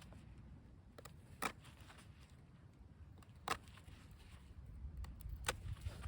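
Three short, sharp clicks or knocks about two seconds apart, over a low rumble that grows louder near the end.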